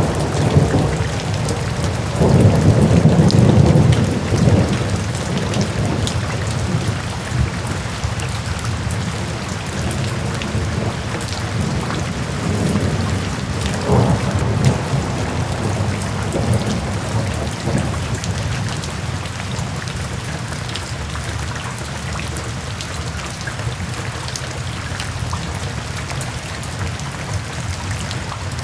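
Steady rain with low rumbles of thunder. The strongest roll comes a few seconds in and another about halfway through, and the rumbling dies away toward the end while the rain keeps on.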